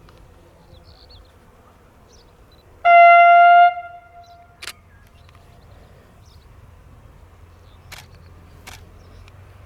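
Steam whistle of DB class 23 locomotive 23 042 sounding one short blast of under a second, about three seconds in, over a quiet outdoor background.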